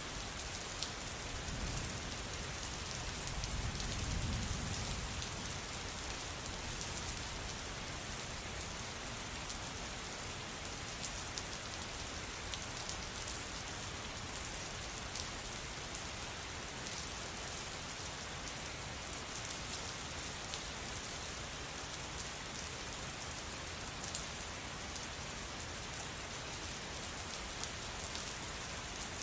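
Steady rain falling on a surface, an even hiss with scattered sharp drop ticks. A low rumble swells and fades between about two and five seconds in.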